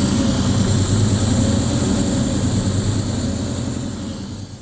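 Chevrolet V8 idling steadily on a newly fitted Holley Terminator EFI throttle body, warming toward operating temperature while the self-learning ECU adjusts the fuel. The idle is smooth.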